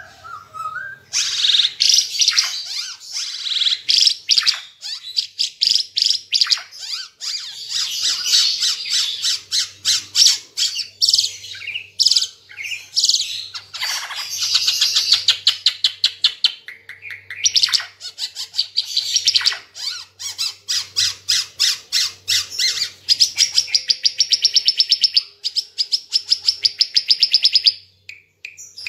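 Ara Timor songbird in loud, sustained song: fast strings of sharp chirps and trills, with long runs of rapidly repeated notes near the end.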